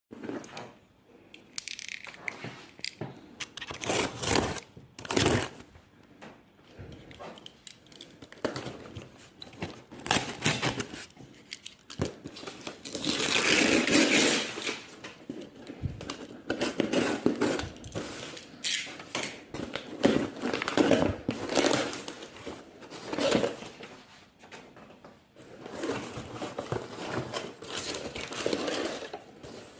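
Crinkling, rustling and scraping of crinkly material handled by hand, coming in irregular bursts with a longer, louder stretch near the middle.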